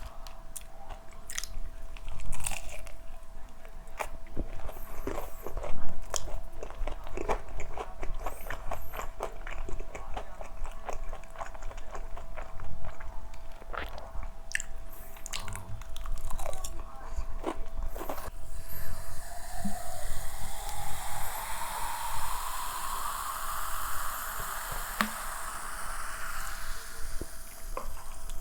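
Close-up bites and chewing of crispy fried chicken, with many irregular sharp crunches. From about two-thirds of the way in a rushing sound takes over, its pitch rising steadily for several seconds.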